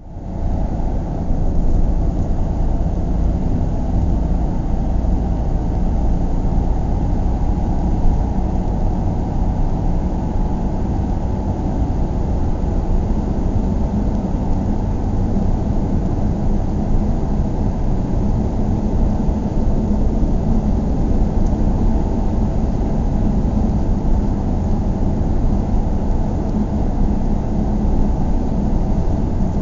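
Steady low rumble of a car driving: road and engine noise as heard inside the cabin, heaviest in the bass. It cuts out briefly at the very start and swells back within about a second, then holds even.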